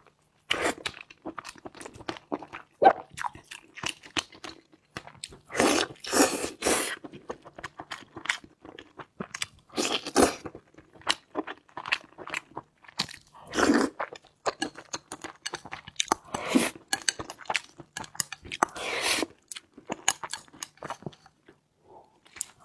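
Close-miked eating: crunchy bites and wet chewing of food, a dense, irregular run of clicks and crackles with louder bursts every few seconds.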